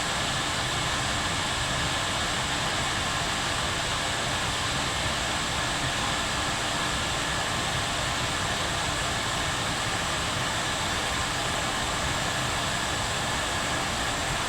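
Kettle boiling: a steady, even rushing hiss that holds unchanged throughout.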